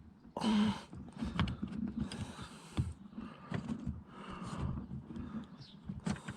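Irregular light plastic clicks and knocks from the Saab 9-5's door pull handle and door trim being handled, as the handle is unhooked from the door-release cable.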